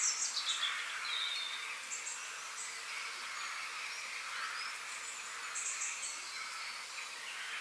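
Forest ambience: birds chirping and calling over a steady background hiss, with a quick run of falling chirps in the first second and further short chirps about two and six seconds in.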